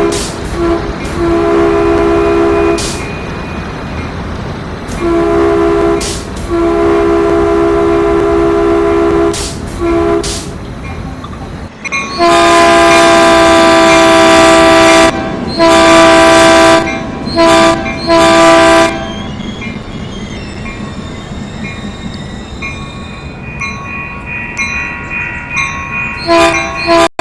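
Train horn sounding a chord in repeated blasts of long and short lengths, like a grade-crossing signal. A first group of blasts comes in the first ten seconds and a louder group follows around the middle. The train runs on with fainter steady ringing tones near the end.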